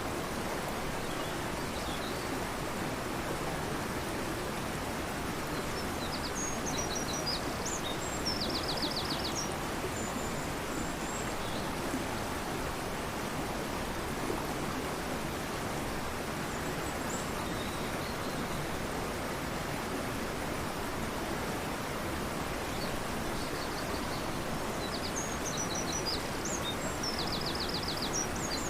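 Fast-flowing river rushing steadily, with a songbird singing two short, high phrases, each ending in a rapid trill: about six seconds in and again near the end.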